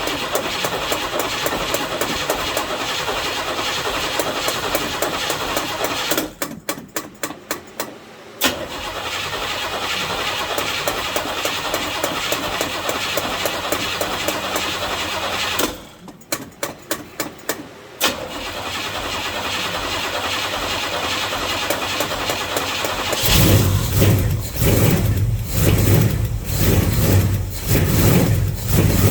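1970 Chevelle's carbureted engine being cranked on the starter after sitting for months. The cranking is broken twice by stretches of evenly spaced clicking, and about 23 s in the engine catches and runs loud and uneven, rising and falling.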